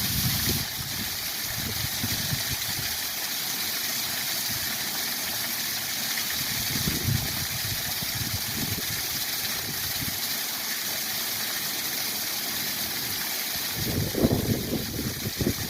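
Waterfall rushing steadily, a continuous even hiss of falling water. Gusts of wind buffet the microphone with low rumbles at the start, briefly around the middle, and more strongly near the end.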